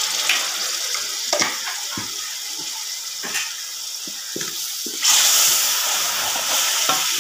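Chicken and onion-tomato masala sizzling in hot oil in a pot, with a wooden spoon knocking and scraping as it is stirred. The sizzle grows louder about five seconds in.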